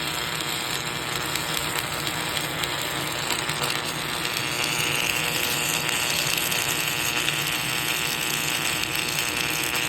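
Submerged arc welding equipment running: a steady mechanical noise with an electrical hum, and a higher hiss that comes in about halfway.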